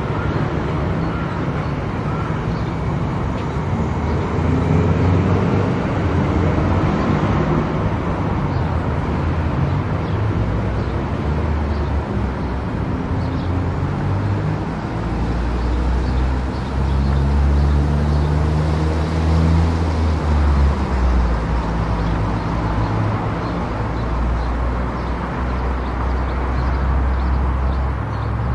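Car driving on a country road: steady tyre and road noise under a low engine hum whose pitch shifts with speed, with a heavier low rumble for a few seconds past the middle.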